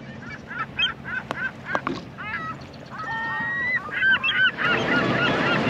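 Birds calling: short chirping calls at first, then a dense, overlapping chorus that grows louder near the end, with a faint low hum and a couple of sharp clicks early on.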